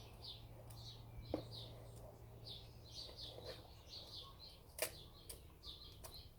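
Small birds chirping over and over in the background, short high calls several times a second. A few sharp taps cut in, about a second in and again near the end, the loudest just under five seconds in.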